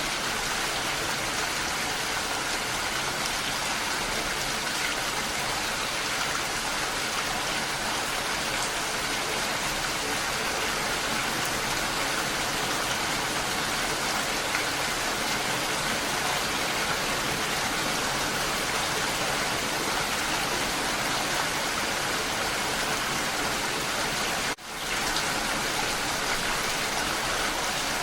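Steady rain falling, an even hiss. Near the end it cuts out for a moment and then fades straight back in.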